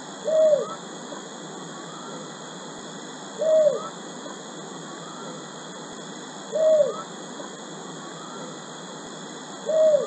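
Bird call: a short hooting note that rises and falls, given four times at even intervals about three seconds apart, over a steady hiss.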